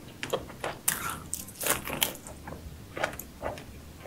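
Close-up eating sounds of a person eating seafood: irregular wet smacks and crisp clicks of biting and chewing.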